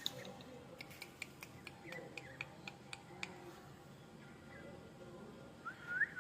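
A bird making soft clicks and short chirps, about three a second, then a quick run of rising whistled notes near the end.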